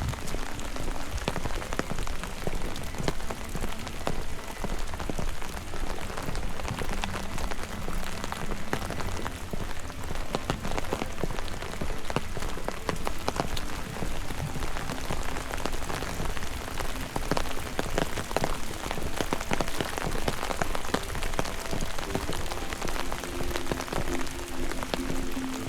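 Steady rain, with a dense patter of individual drops striking nearby surfaces. A few steady musical tones come in near the end.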